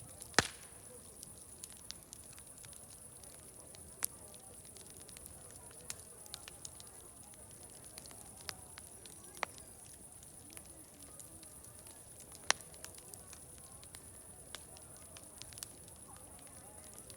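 Wood fire crackling, with sharp pops at irregular intervals, the loudest about half a second in and another near twelve and a half seconds, over a steady high hiss. Faint distant crowd chatter runs underneath.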